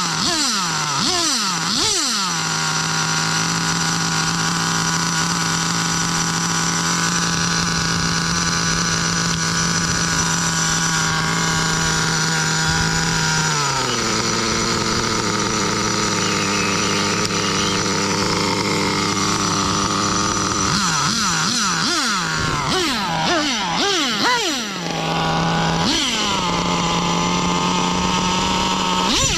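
Nova Mega SX21 nitro glow engine in a Serpent Vector RC car, running at a steady high-pitched note. About halfway through it drops to a lower steady pitch. Later it is revved up and down in quick blips, then settles again; the owner judges the engine to be running lean.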